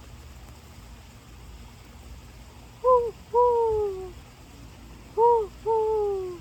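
A bird calling twice, each call a short low note followed by a longer note that falls in pitch.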